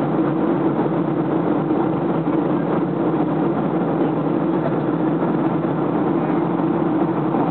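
Steady engine and airflow noise inside the passenger cabin of a Ryanair Boeing 737 in flight, an even rushing sound with a constant low hum.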